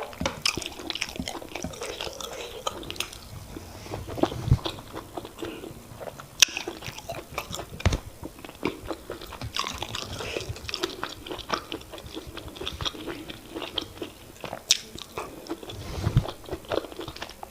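Close-miked eating of semolina fufu and oha soup: irregular wet chewing and smacking with many sharp mouth clicks.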